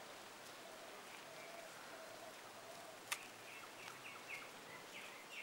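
Faint outdoor ambience with birds calling: faint lower calls in the first half, then a quick run of short, high chirps from about three seconds in. A single sharp click comes just before the chirping starts.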